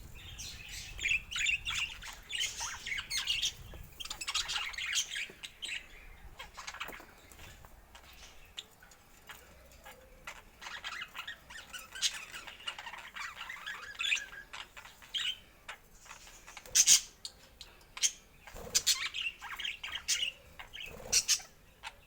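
Budgerigars chattering and warbling, with several sharp, louder squawks in the second half.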